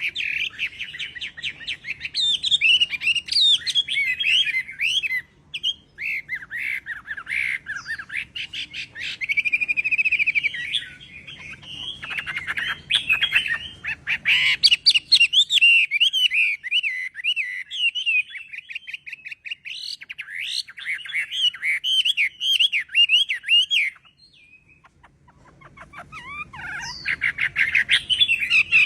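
Chinese hwamei singing a long, varied song of rapid whistled phrases, trills and pitch glides, pausing briefly near the end.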